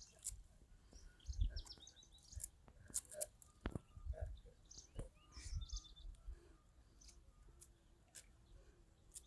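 Birds chirping faintly outdoors, a few short high calls in small clusters, with scattered soft knocks and clicks in between.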